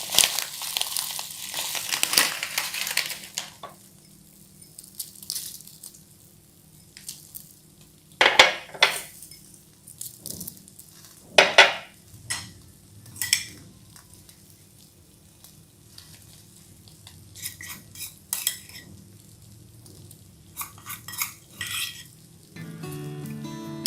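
Kitchen utensils clinking and knocking against a pan and dishes, scattered single strikes after a few seconds of hissing, while rice paper with egg is fried.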